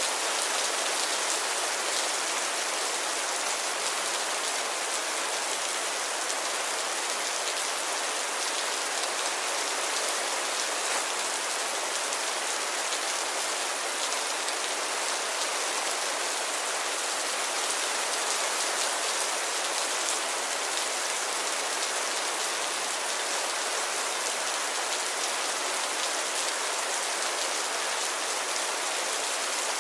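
Steady, even rain falling, a continuous high hiss of many drops with fine pattering and no thunder.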